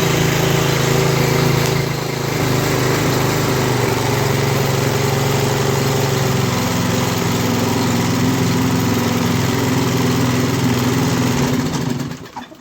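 Pull-start four-stroke small engine with an automatic choke, running steadily just after a cold start, then shutting off and running down near the end.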